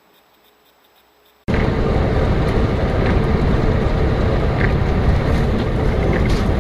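Near silence, then about a second and a half in a sudden start of loud, steady vehicle road noise: a car driving, engine and road rumble heavy in the low end.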